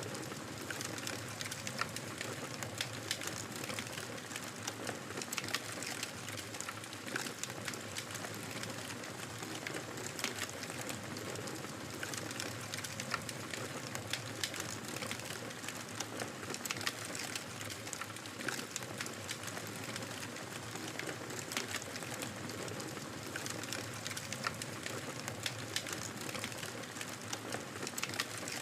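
Fire burning in a fireplace, crackling: a steady hiss with frequent irregular sharp pops and snaps.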